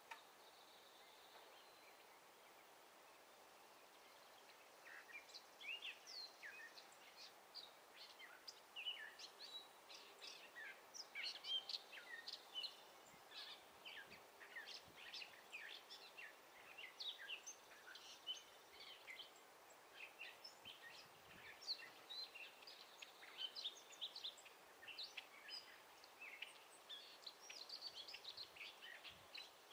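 Small songbirds chirping and calling, many short high chirps overlapping densely; they start about five seconds in after a few seconds of faint outdoor hiss.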